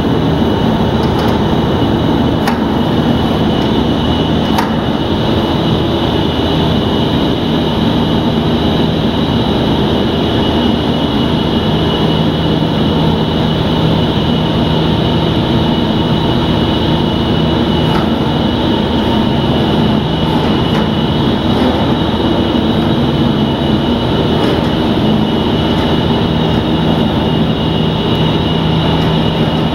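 Diamond-blade concrete saw running steadily while cutting concrete: a loud, unbroken low drone with a steady high whine over it and a few faint ticks.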